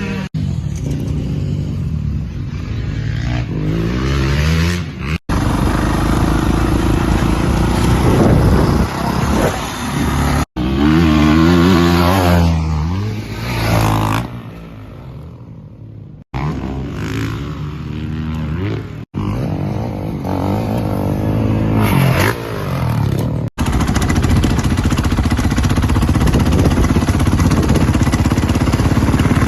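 Dirt bike engines revving hard and shifting through the gears, the pitch climbing and dropping repeatedly. The sound comes in several short clips joined by abrupt cuts.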